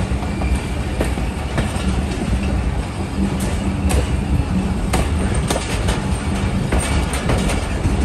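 Passenger train coach rolling slowly along the track, heard from an open coach window: a steady rumble of wheels on rail, with scattered sharp clacks as the wheels cross rail joints and points.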